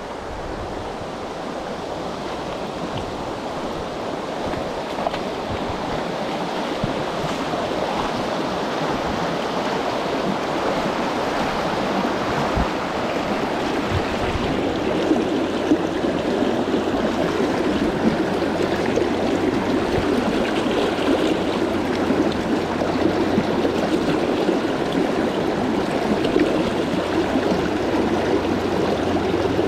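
Flowing stream water rushing steadily, growing louder over the first half.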